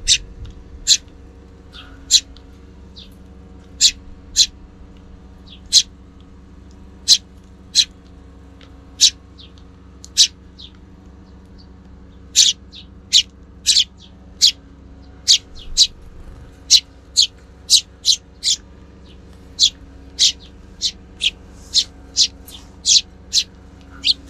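Eurasian tree sparrows chirping: a run of short, sharp single chirps at irregular intervals, coming faster in the second half, over a low wind rumble.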